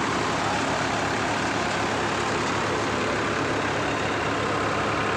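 New Holland 3600-2 50 hp tractor's diesel engine running steadily under load while driving a cutter through its PTO, the engine drone mixed with the whirring noise of the driven machine.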